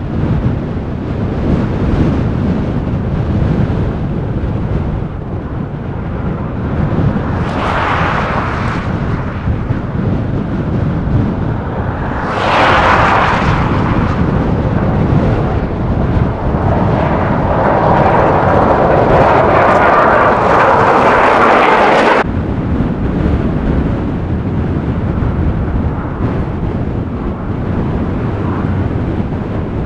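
Strong wind buffeting the microphone with a steady low rumble, and three gusts of hissing, the last and longest ending abruptly.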